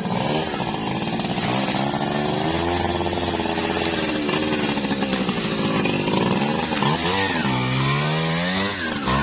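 Motoyama 1000 chainsaw running loud, its engine pitch repeatedly sagging and picking back up as it works under load in a cut.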